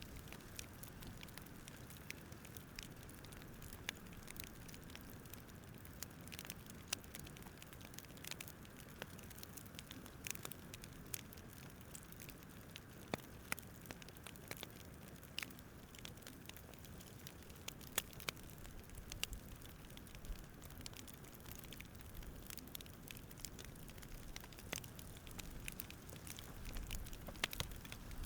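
Campfire crackling: irregular sharp pops and snaps over a low, steady rush.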